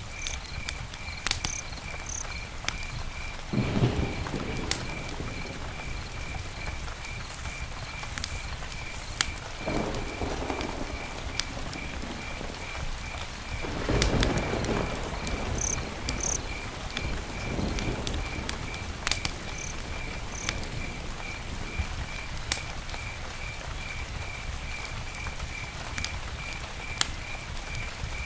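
Campfire crackling, with sharp pops scattered throughout and a few louder rushing swells, the biggest about four and fourteen seconds in. Under it a cricket chirps steadily, about three chirps a second.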